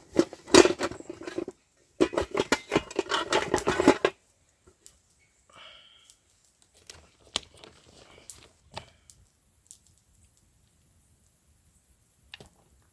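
Limes being cut up with a knife: dense crisp crackling and clicking for about four seconds, broken once, then scattered light taps and clicks.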